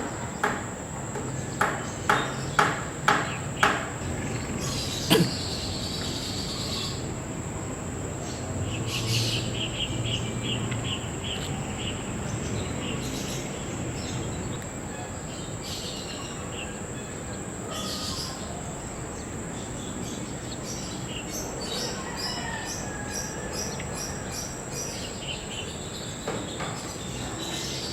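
Small birds chirping on and off, with a quick run of about a dozen short chirps around ten seconds in and scattered high chirps after, over a steady high-pitched whine. Seven sharp clicks come in the first five seconds.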